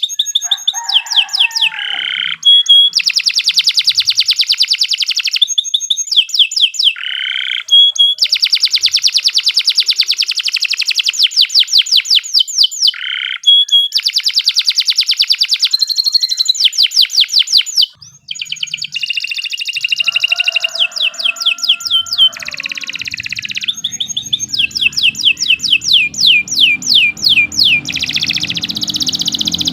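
Domestic canary singing a long, unbroken song of fast trills and rapidly repeated sweeping notes, pausing only briefly past the middle.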